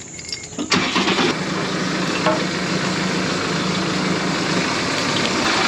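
Tractor engine running steadily, cutting in suddenly just under a second in.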